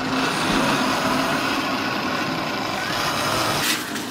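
Electric model train running on its track: a steady mechanical whir of the small motor and wheels, falling off sharply near the end.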